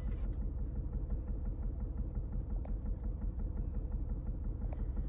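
2009 Lincoln MKS 3.7-litre V6 idling roughly with a steady uneven pulse: a misfire on cylinder number 5, traced to a failing ignition coil.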